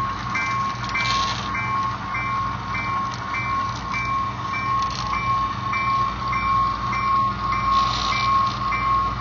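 Train running, with a steady ringing tone and a higher ring pulsing about twice a second over a constant low rumble.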